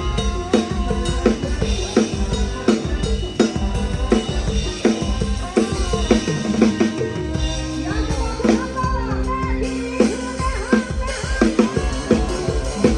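PDP drum kit playing a steady beat in a live band, with kick drum, snare and rimshots. A melody line with pitch bends runs over the drums.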